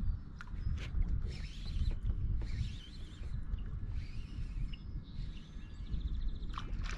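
Wind rumbling on an outdoor microphone, with several brief bursts of hiss over it.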